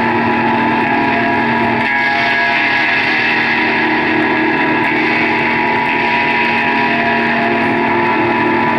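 Live amplified band playing a loud, steady drone of layered held tones with no beat.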